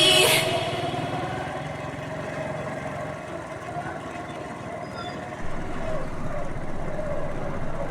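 A vehicle's engine running steadily with road noise, getting a little louder about five and a half seconds in.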